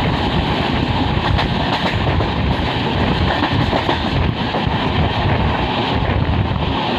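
Steady running noise of a moving passenger express heard from on board: wheels rolling on the rails with a constant rumble and rushing air, and a few faint clicks.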